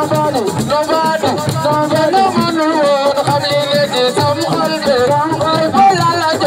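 Assiko band music: a singing voice over percussion with rattling shakers.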